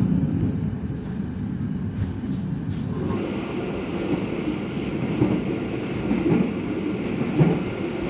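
Passenger train running at speed, a steady rumble of the moving carriage on the rails heard from inside the coach. A steady hiss joins about three seconds in.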